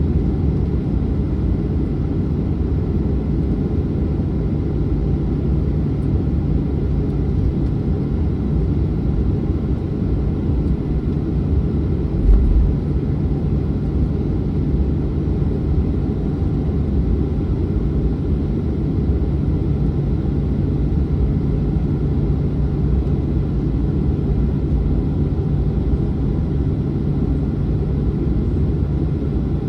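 Boeing 737-900's CFM56 jet engines running at low power: a steady, deep rumble with an even hum through it. A single low thump comes about twelve seconds in.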